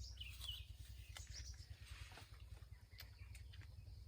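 Faint chirping of small birds in a few short bursts over a steady low hum.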